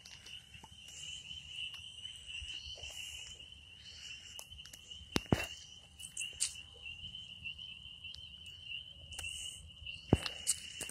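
Insects, likely crickets, trilling: a steady high-pitched tone held throughout, with scattered clicks and light footsteps.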